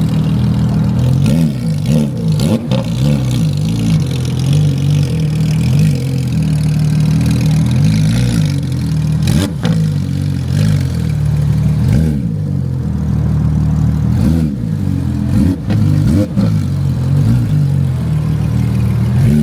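Car engines running at idle, with several short revs that rise and fall in pitch.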